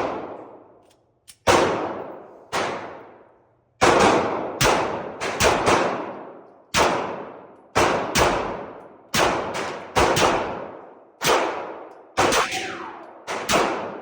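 Pistol shots at an irregular pace, about twenty in all, some in quick pairs, each followed by a long echoing decay.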